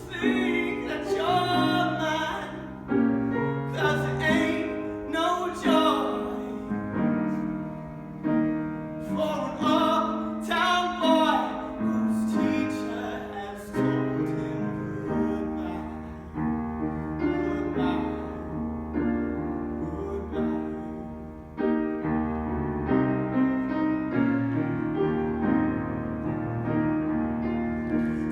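Slow piano music, with a voice singing over it in places.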